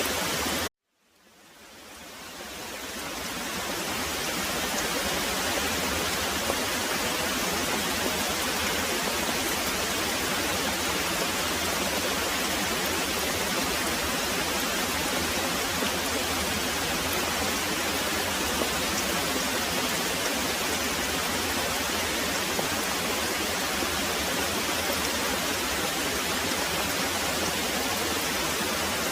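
Very heavy rain pouring in a steady, even hiss. Under a second in it cuts out abruptly for a moment, then fades back up over a few seconds.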